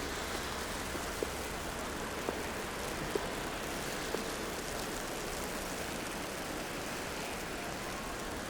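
Steady hiss of a snowy city street, with wet snowfall and passing traffic blended together. Soft taps fall about once a second through the first half.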